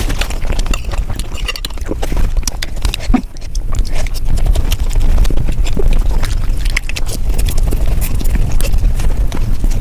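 Dahi puri being eaten, sped up about five times: crisp puris and wet yogurt filling crunching, squelching and being chewed in a dense, rapid stream of clicks and smacks.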